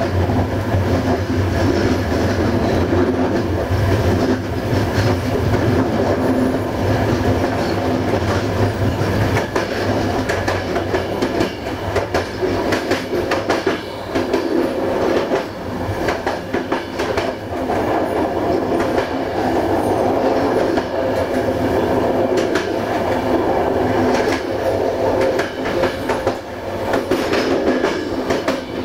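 Passenger train coaches running along the track, heard from on board: a steady rumble of wheels on rail with repeated clicks as the wheels pass over rail joints.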